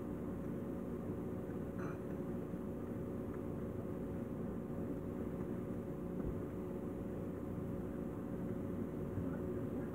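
Refrigerator running, heard from inside the closed fridge: a steady, even hum with several low tones.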